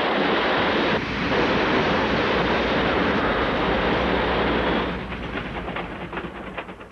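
Loud, steady rushing noise that briefly dips about a second in. About five seconds in it breaks into rapid crackling that fades away.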